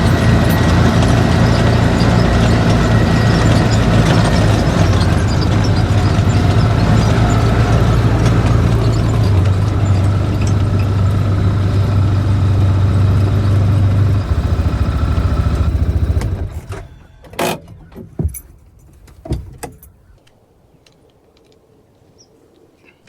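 A vehicle engine running steadily with a strong low hum, then shut off about two-thirds of the way through. A few sharp knocks follow over the next few seconds before it goes quiet.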